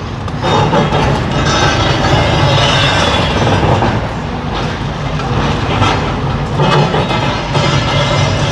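Demolition machinery at work: a heavy diesel engine running with irregular scraping and clattering of rubble.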